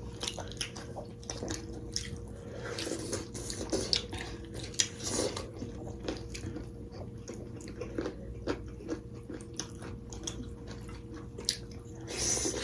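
Close-miked eating sounds: chewing and biting into steamed beef momos, with many small irregular wet clicks and smacks over a faint steady hum.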